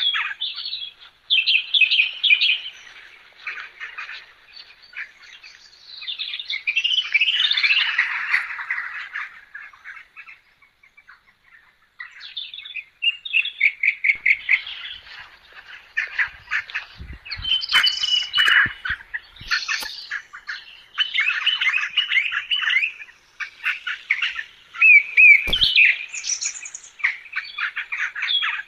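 Birds chirping and calling in quick runs of short notes, with a brief lull about ten seconds in and a few sharp clicks later on.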